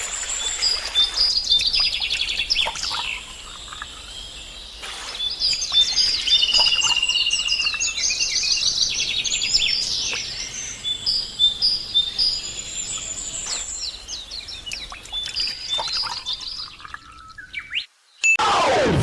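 Birds singing: many overlapping high chirps and quick trills, cutting off to silence shortly before the end.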